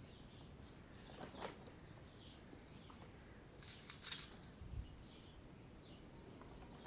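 Faint birds chirping in the background, with a brief cluster of sharp clicks and rustling about halfway through, followed by a soft low thump.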